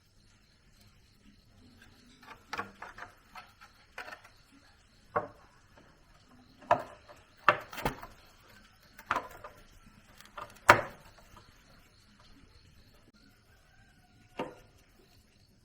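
Irregular knocks and clacks of hard objects being handled, a dozen or so, some in quick runs of two or three, the loudest about eleven seconds in.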